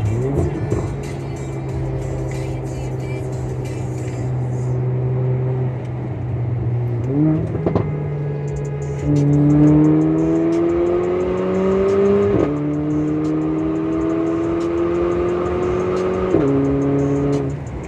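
Mercedes-AMG GLA45's turbocharged four-cylinder engine with an aftermarket Fi exhaust, running steadily at first and then pulling hard. Its pitch climbs and drops suddenly at two upshifts, one about two-thirds of the way in and one near the end.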